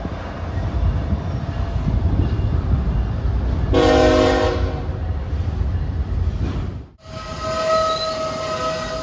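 A train rumbling past, with one short blast of a locomotive air horn about four seconds in. After an abrupt cut near seven seconds, a steady high-pitched wheel squeal rings over the rumble of rolling cars.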